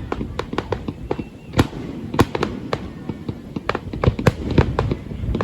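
Fireworks exploding in a rapid, irregular string of sharp bangs and cracks, several a second, over a continuous low rumble.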